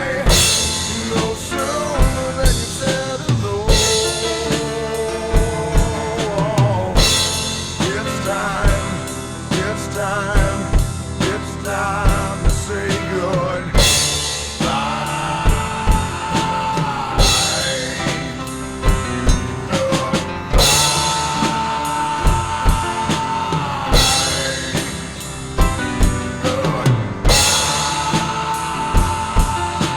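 Rock drum kit played along to the song's instrumental section: steady kick and snare with a cymbal crash every three or four seconds, under long held, bending lead guitar notes.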